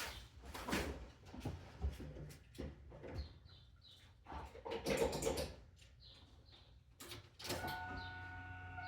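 Faint scattered clicks and rustling, then about seven and a half seconds in a louder click and a steady electrical whine as the 2002 Camaro SS's ignition is switched on, just ahead of cranking the engine.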